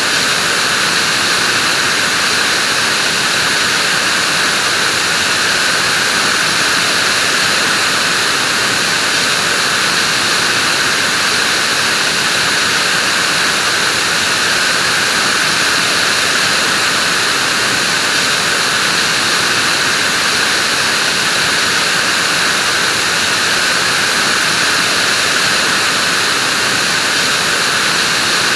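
Vacuum cleaner running steadily: a constant, even rush of air and motor noise that never changes in pitch or level.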